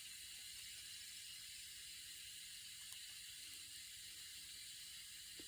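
Faint steady hiss, with no distinct sounds in it.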